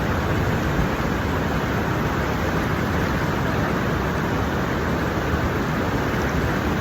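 Steady rushing noise, heaviest in the low end, with no separate knocks, calls or voices standing out.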